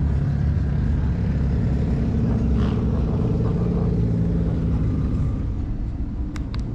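Car engine running steadily, with two sharp clicks near the end.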